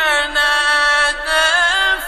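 A male voice reciting the Quran in the melodic, drawn-out mujawwad style: one long phrase held on a sustained note with quick wavering ornaments.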